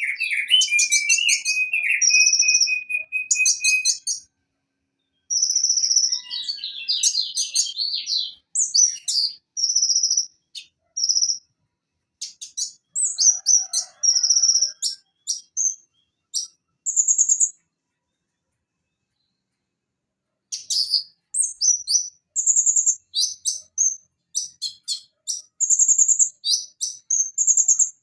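Van Hasselt's sunbird (konin) singing: rapid high chirps, ticking notes and short trills in bursts. It pauses twice, for about a second near the start and for about three seconds past the middle.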